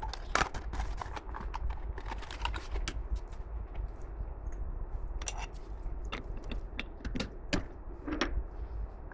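Irregular light clicks and taps of small metal parts and hand tools being handled on a workbench, over a steady low hum.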